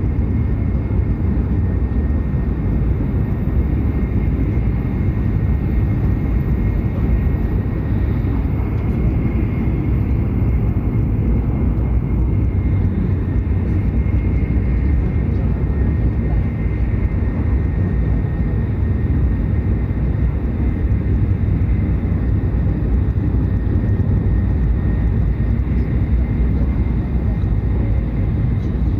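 Hokuriku Shinkansen train running at speed: a steady low rumble with a faint high whine over it.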